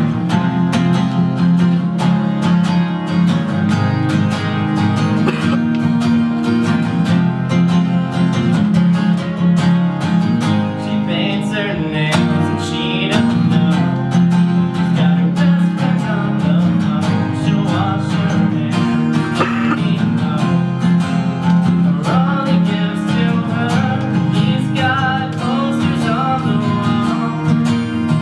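Acoustic guitar strummed steadily in a regular rhythm, as live music.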